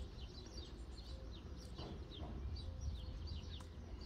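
Birds chirping: short chirps that fall in pitch, a few a second, over a steady low rumble.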